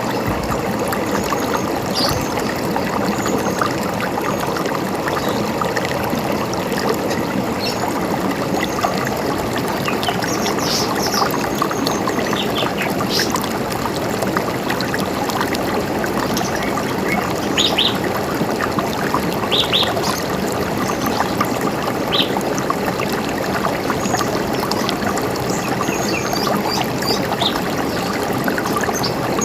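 River water running in a steady rush, with scattered short high bird chirps over it, a few of them quick doubled notes in the middle of the stretch.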